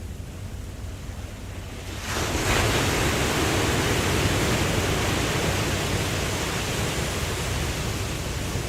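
Ocean surf: a low rumble of water, then about two seconds in a wave breaks into a loud rushing wash that holds and slowly eases.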